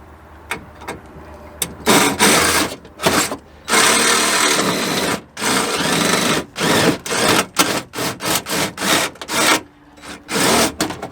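Power drill drilling out the rivets that hold a BMW E36 door's window regulator, run in repeated bursts of a second or so with short pauses, with quick trigger pulses toward the end.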